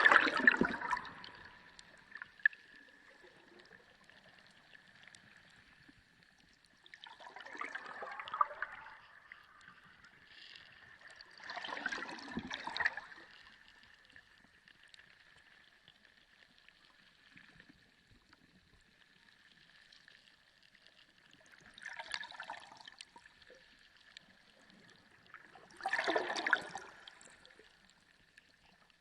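Sea water gurgling and washing in five separate surges, each a second or two long, the last one loud, over a faint steady hiss with a thin constant whistle-like tone.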